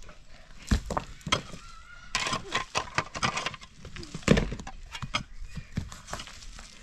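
A series of sharp, irregular knocks and cracks, about a dozen hits spaced unevenly.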